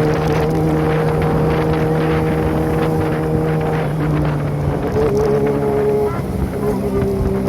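Kawasaki ZX-25R's inline-four engine running through an aftermarket Prospeed exhaust while riding, holding a steady note that changes pitch about four to five seconds in and again near the end. Wind on the microphone.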